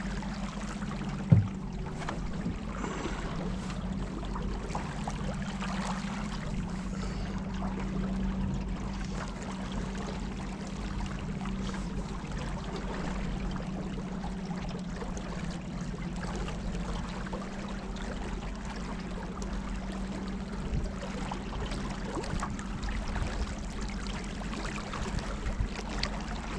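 Motorboat engine running at a steady cruise with a constant low hum, water rushing along the hull. A single sharp knock about a second and a half in.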